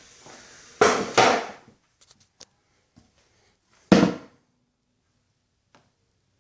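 Handling knocks: two short scraping rustles about a second in, a few light clicks, and one sharp heavy thud about four seconds in.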